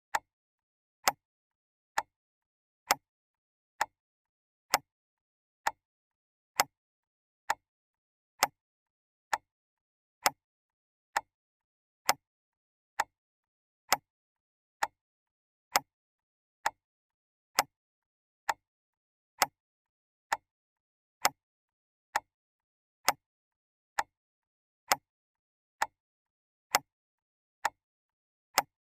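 Clock ticking steadily, one sharp tick a little under once a second, with silence between ticks.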